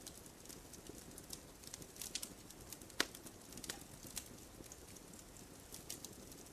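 Wood campfire crackling softly: scattered small pops over a faint low hiss, with a small run of pops about two seconds in and one sharper pop about three seconds in.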